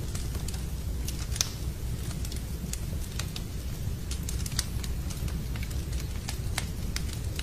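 Wood fire in a fireplace crackling, with irregular sharp pops and snaps over a steady low rumble, mixed with steady rain.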